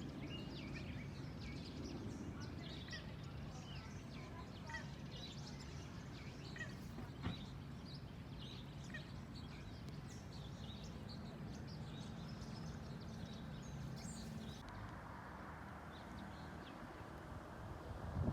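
Faint outdoor ambience of many small birds chirping and twittering over a low, steady background rumble, with a single short tap about seven seconds in. The chirping thins out over the last few seconds.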